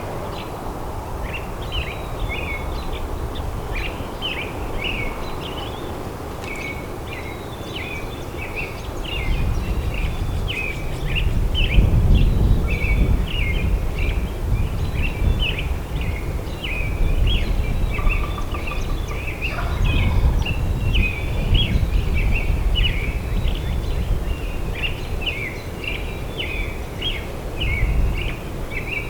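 Songbirds chirping continuously in a dawn chorus, with a wild turkey gobbling once about two-thirds of the way in. Under it runs a low rumbling noise that grows louder after the first third.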